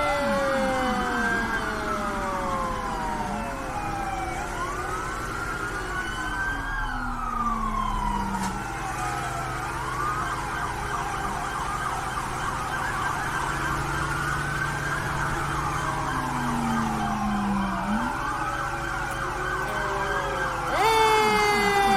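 Several emergency-vehicle sirens wailing at once, their tones overlapping as they rise and fall. A louder siren with several tones stacked together comes in near the end.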